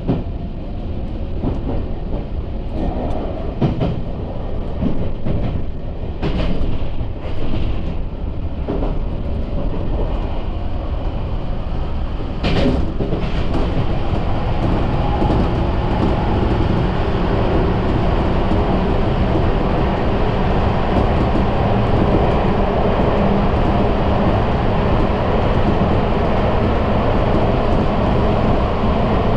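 Sotetsu electric commuter train running on the rails. There is a series of wheel clacks and knocks through the first half, then a steady, even running noise from about halfway on.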